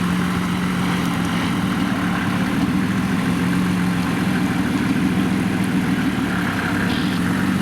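A vehicle engine running steadily at low revs, near idle, with an even pitch.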